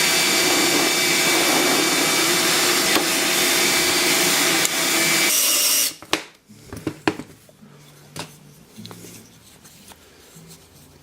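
Electric drill boring a bolt hole through a maple block, running steadily for about six seconds and then stopping. After it, a few scattered knocks and clicks of wood and tools being handled.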